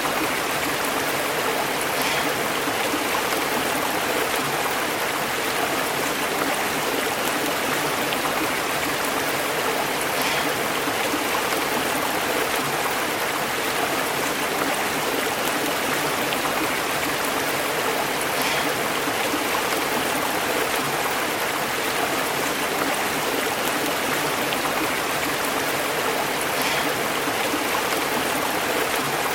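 A stream burbling steadily as it flows over rocks, an even, unbroken rush of water.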